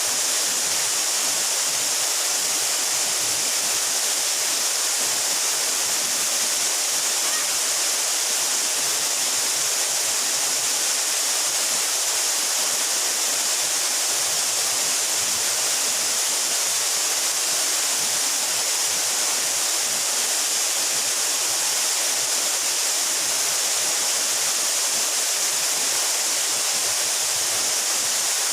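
Waterfall, about 12 metres high, pouring steadily into its pool: an even, unbroken rush of falling water, strongest in the high hiss.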